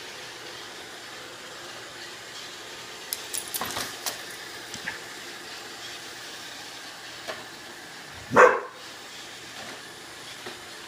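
A Vizsla barks once, short and loud, about eight seconds in, over the steady hum of an iRobot Roomba robot vacuum running. A quick run of sharp clicks and clatter comes about three to four seconds in.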